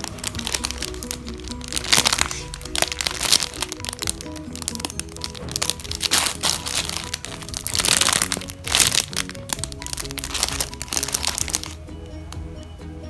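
Thin plastic packaging round a squishy toy crinkling and crackling loudly as it is handled, in bursts that stop near the end, with background music playing throughout.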